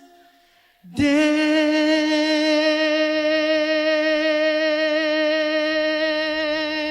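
After a brief hush, a male voice comes in about a second in and holds the long final sung note of a Christmas carol on the word 'Day', steady with a gentle vibrato.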